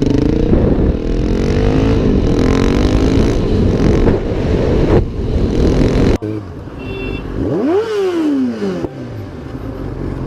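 Motorcycle engine running loud on the road, its pitch shifting up and down. About six seconds in, the sound switches abruptly to quieter traffic, where one engine revs up and then falls back.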